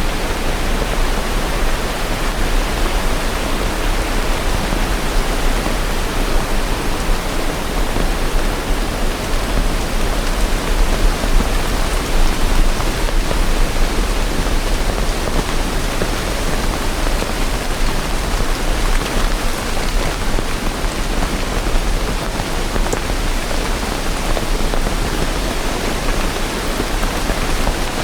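Steady heavy rain, an even dense hiss with no separate drops standing out.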